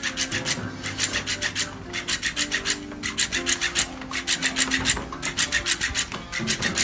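Fast, regular rasping strokes, about five a second, over held musical notes.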